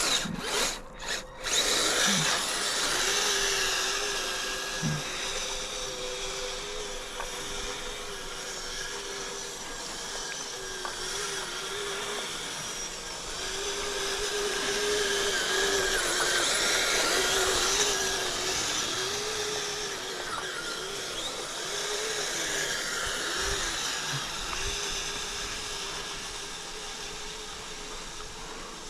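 Kyosho Blizzard RC snow tractor driving, its dual Traxxas 380 electric motors whining and wavering in pitch with the throttle, over the rattle of its metal tracks.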